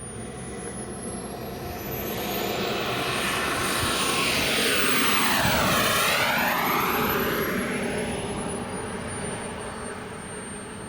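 Turbine-powered RC model jet making a low pass: a high, thin turbine whine with a rushing noise that builds to its loudest about five seconds in and then fades as the jet moves away.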